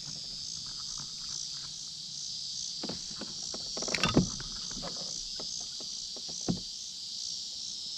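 Steady chorus of insects, a high pulsing drone. A few short knocks and clatters come about three to four seconds in, and one more near six and a half seconds.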